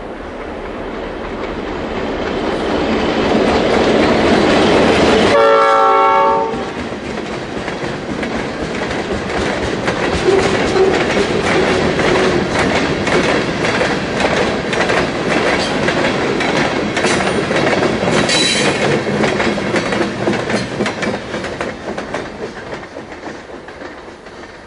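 Freight train passing: the locomotive approaches and sounds a short horn blast about five seconds in, then the cars roll by with a steady clickety-clack over the rail joints, fading near the end.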